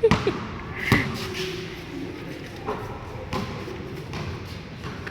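A basketball thudding on an indoor court, the loudest bounce about a second in, followed by a few weaker ones, in a large echoing hall.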